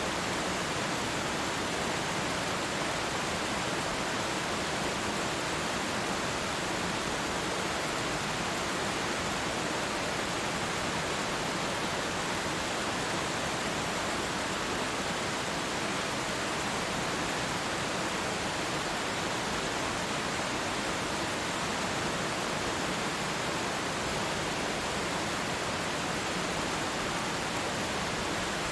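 Waterfall pouring: a steady, even rush of falling water with no changes.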